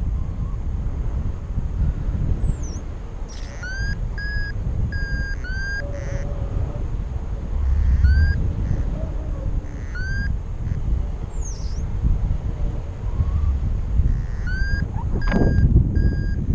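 Strong wind buffeting the microphone in a constant low rumble. Over it, short high beeps come in small groups several times.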